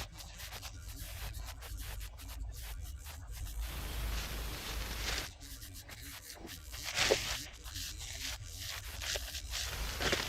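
Irregular rubbing and scraping strokes, with a short lull about halfway through and a sharper stroke soon after.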